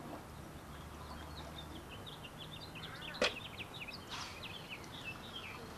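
Small birds chirping in quick, irregular twitters, with one sharp click a little over three seconds in.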